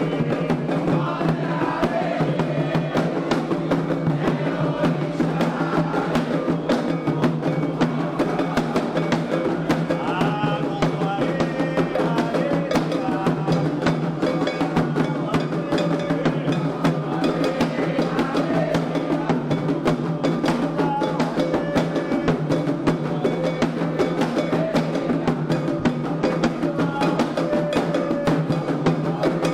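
Candomblé ritual music: atabaque hand drums and an agogô bell keep up a fast, steady rhythm under group singing.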